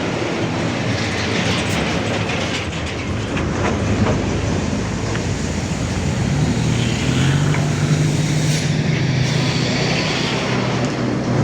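Truck diesel engine running hard on a steep climb, a loud continuous mechanical noise. A steadier, stronger engine note comes in about six and a half seconds in.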